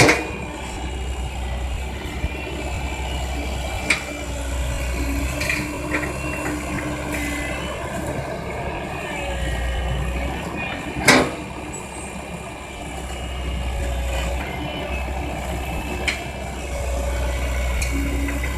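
Komatsu excavator working, its diesel engine rumbling low and swelling and easing every few seconds under hydraulic load. A few sharp knocks cut through, the loudest about eleven seconds in.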